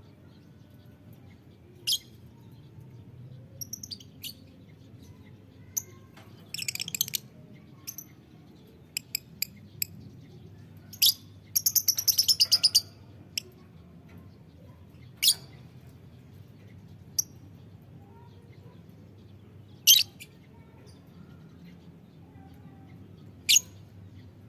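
Lovebirds giving shrill, high-pitched chirps: single sharp calls every few seconds, with two rapid chattering runs about seven and twelve seconds in. A faint low steady hum underneath.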